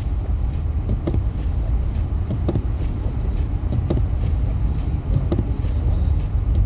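Steady low rumble of a truck driving on a snowy road, heard from inside the cabin, with faint light ticks recurring about every second and a half.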